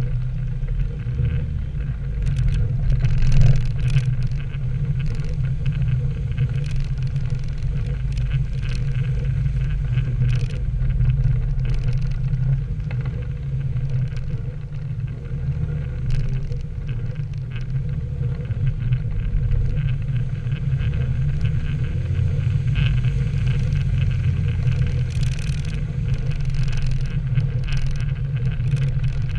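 Lowered Nissan 240SX (S13) driving on wet roads: a steady low engine and road drone that shifts now and then, with scattered short clicks and knocks.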